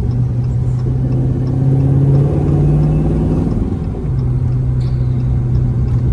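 Dodge Scat Pack's 6.4-litre HEMI V8 running under way, a steady low exhaust note that climbs in pitch about two seconds in, then falls away with a short dip in loudness near four seconds in before settling back to a steady drone.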